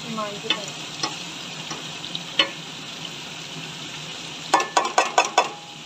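Chicken frying in oil in a metal pan, a steady sizzle, while a steel ladle stirs and scrapes against the pan with scattered clicks. A quick run of five or six sharp metallic clinks comes about four and a half seconds in.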